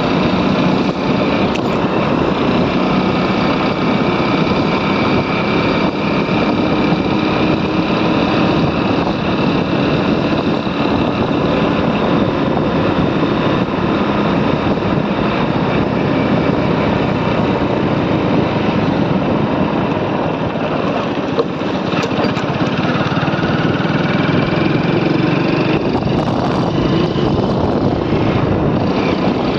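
Motorcycle running at a steady cruise, its engine hum mixed with a constant rush of wind and road noise.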